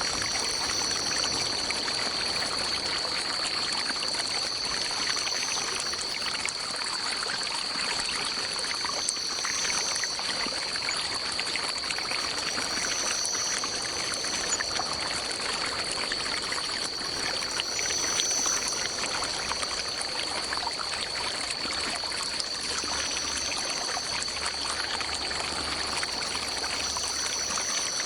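Stream water running and trickling steadily, with a constant high-pitched drone over it and a short, higher call that recurs every four to five seconds.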